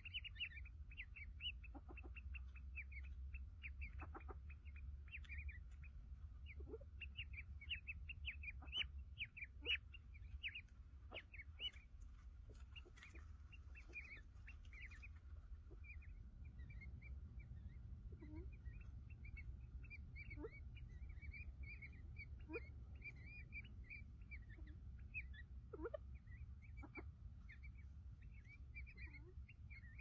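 Faint, rapid high-pitched chirping and peeping, many short calls a second, from birds at a ground nest with a newly hatched chick.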